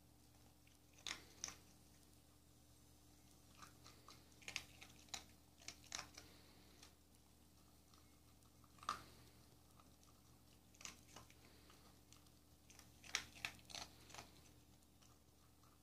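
A dog chewing and crunching dry kibble: scattered sharp crunches in irregular clusters with quiet gaps between.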